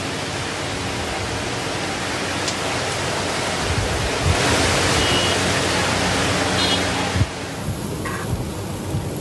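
Heavy rain and running floodwater on a road: a dense, steady hiss that grows louder around the middle and drops back sharply about seven seconds in.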